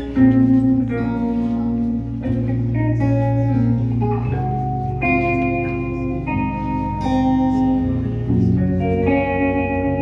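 Live band playing an instrumental intro led by guitar, with a bass line underneath and chords changing every second or two.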